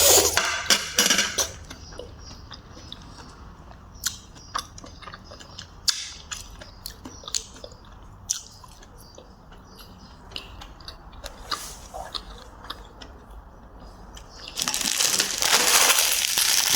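Close-up eating sounds: chewing and crunching mouthfuls of food, with scattered sharp clicks. A louder, denser noisy stretch comes near the end.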